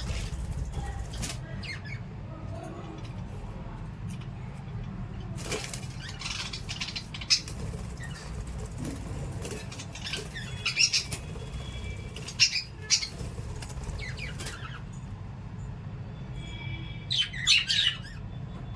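Caged lovebirds and budgies fluttering their wings and giving sharp chirps and squawks in several short bursts, the loudest about two thirds of the way in and near the end, over a steady low hum.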